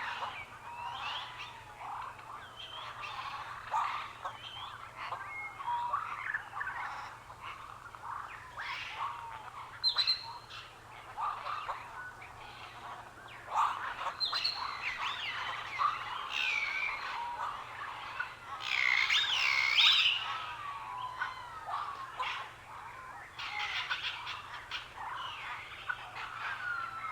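Birds chirping and calling, many short whistled and warbling calls overlapping throughout, busiest and loudest about two-thirds of the way through.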